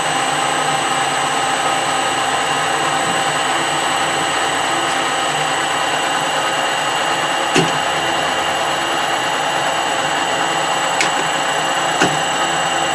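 Metal lathe running steadily with a whine of several steady tones, cutting a bar of hard steel with a freshly fitted insert tip. A few sharp clicks stand out, one in the middle and a couple near the end.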